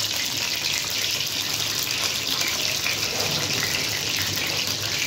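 Mutton koftas sizzling as they fry in hot oil: a steady hiss of bubbling oil.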